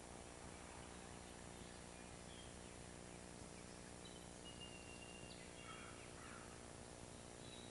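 Faint bird calls over a steady hiss and low hum: a few short chirps and one held whistle a little past halfway.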